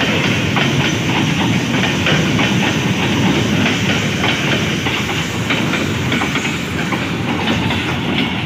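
Freight train wagons rolling past close by: a steady rumble of steel wheels on the rails with a run of sharp clicks and clatter as the wheels cross the rail joints.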